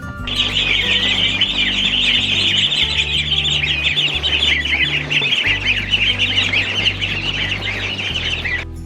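Many small birds chirping at once, a dense, rapid high twittering that starts suddenly and cuts off just before the end. Low sustained music notes run underneath.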